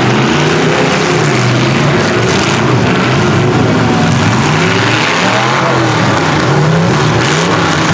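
Several derby trucks, vans and SUVs running their engines at once, revving up and down so their pitches rise and fall over one another.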